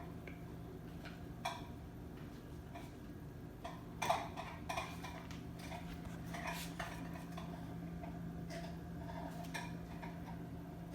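A few faint, scattered light clicks and taps over a low steady hum.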